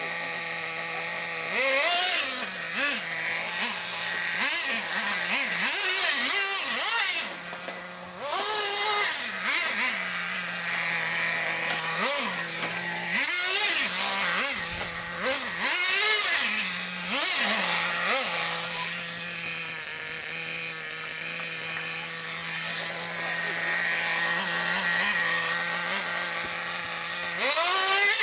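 Small nitro glow engines of radio-controlled trucks revving up and dropping back over and over, with a steady high-pitched engine drone underneath.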